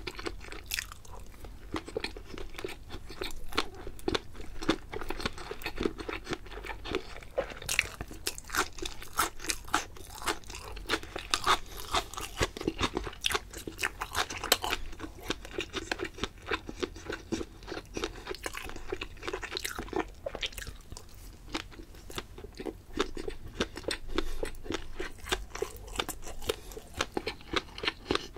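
Close-miked chewing of fish-roe gunkan sushi, the seaweed-wrapped rice topped with orange roe, with dense, quick crunchy clicks throughout.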